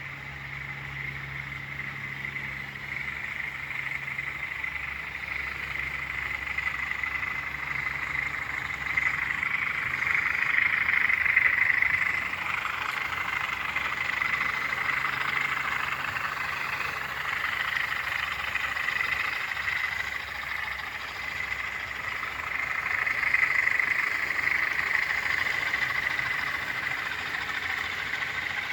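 Class 20 diesel locomotives with English Electric engines working a container train, their high turbocharger whistle swelling and fading as they approach and pass. A low engine hum is heard early on and fades out; the whistle is loudest about ten seconds in and again near the end.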